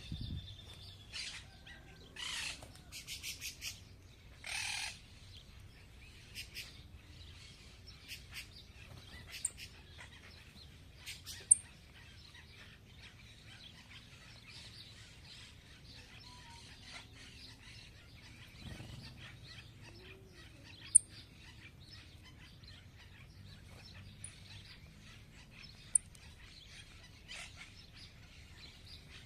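Small birds chirping as they feed: a quick run of short chirps in the first few seconds, then scattered quieter chirps, with a few sharp, very short high chirps standing out later.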